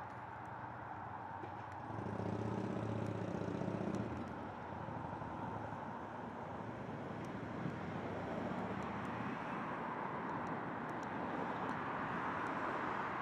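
Steady outdoor background noise of distant road traffic, with a motor vehicle engine passing briefly about two seconds in.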